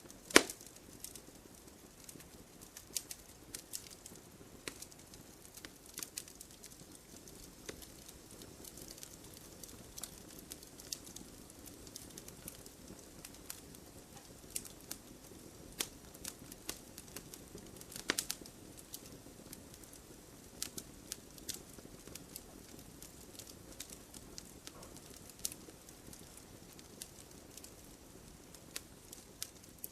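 Wood fire burning in a fireplace: irregular crackles and sharp pops from the logs over a soft steady hiss, with a loud snap about half a second in and another at about 18 seconds.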